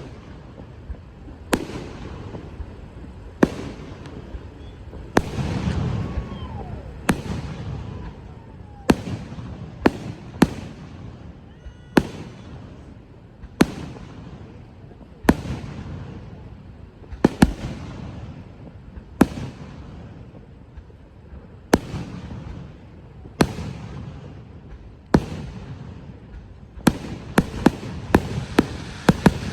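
Fireworks going off: sharp bangs about every two seconds with a low rumble between them, then a rapid run of crackling bangs near the end.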